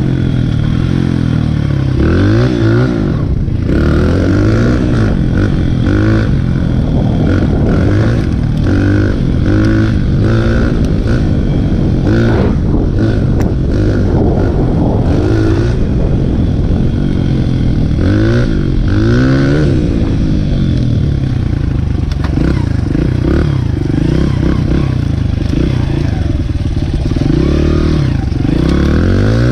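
Dirt bike engine running hard while being ridden, its pitch climbing and dropping back again and again as the throttle is opened and shut and the gears change.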